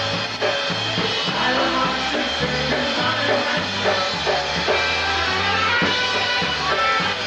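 Live polka band playing, with a drum kit and a bass line stepping between notes under melody instruments, at a steady beat.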